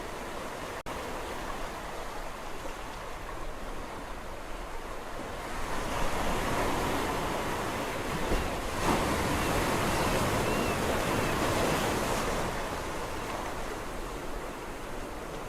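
Sea waves washing onto a shore: a steady surf hiss, with one wave swelling louder from about six seconds in and easing back by about twelve seconds.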